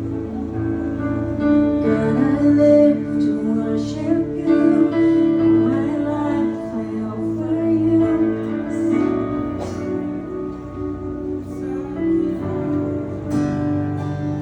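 Live acoustic worship music: singing, mainly a woman's voice, with guitar accompaniment.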